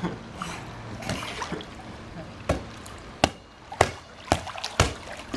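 A ball being hit back and forth in a rally: five sharp knocks about half a second apart in the second half, over faint water noise.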